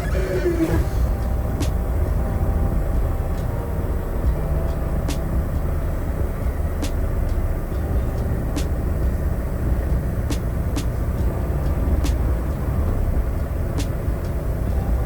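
Semi truck's diesel engine running steadily at low speed, heard from inside the cab while the truck backs up, with a faint regular click every second and a half to two seconds.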